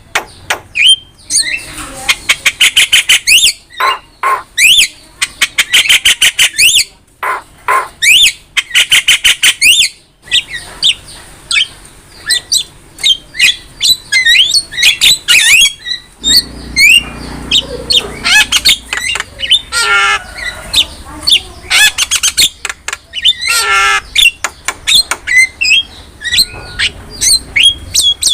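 Javan myna (jalak kebo) singing a loud, varied song. In the first half it gives rapid rattling click trains that alternate with harsh squawks, and throughout it mixes in many short whistled notes that rise and fall.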